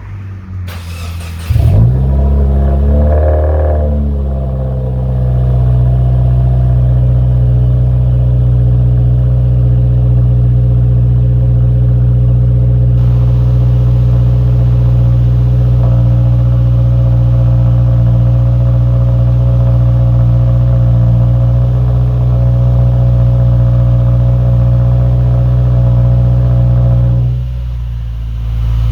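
A 2017 Subaru WRX's turbocharged flat-four starts through a FactionFab axle-back muffler delete with no mufflers or resonators. It catches with a flare about a second and a half in, then settles over a couple of seconds into a loud, steady idle. The sound drops off briefly near the end.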